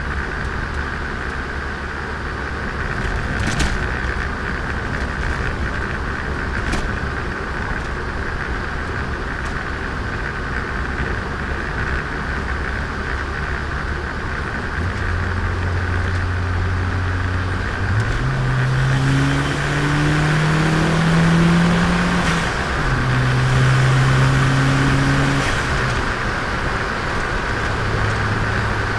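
Turbocharged Nissan Micra engine running while the car is driven. About two-thirds of the way in, the engine note rises as the car accelerates, drops, then rises again before settling. A few sharp clicks come in the first third.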